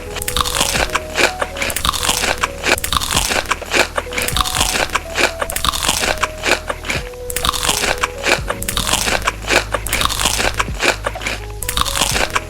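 Loud, close-up crunchy chewing and biting of crisp food, continuous crackling, over soft background music.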